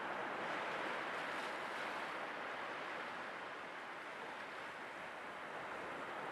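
Sea waves washing on a shore, a continuous surf wash that eases slowly and builds again near the end.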